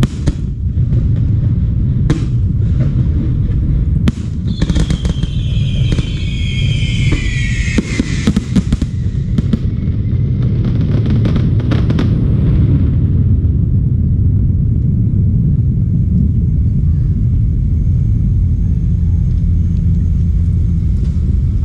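Aerial fireworks going off: scattered sharp bangs through the first dozen seconds, with a high whistle falling in pitch from about four to eight seconds in. After about thirteen seconds the bangs stop and only a steady low rumble remains.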